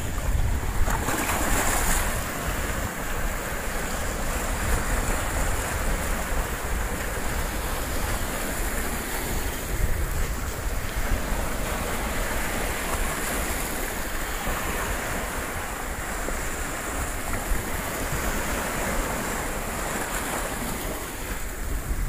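Small sea waves washing in and swirling over a rocky coral shore, swelling and easing every few seconds, with a low rumble of wind on the microphone.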